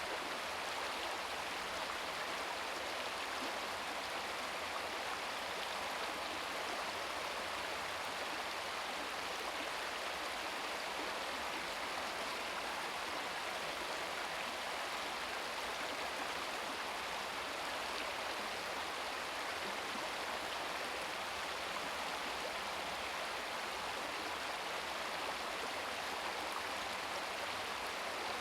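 Small brook babbling over rocks: a steady, even rush of running water.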